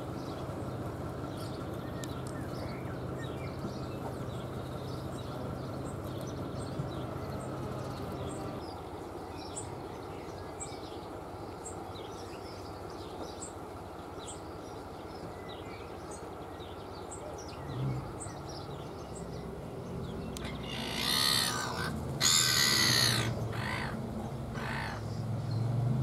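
Birds calling: faint, scattered short chirps of house sparrows at a feeder over a low steady hum, then a few loud, harsh calls about three-quarters of the way through.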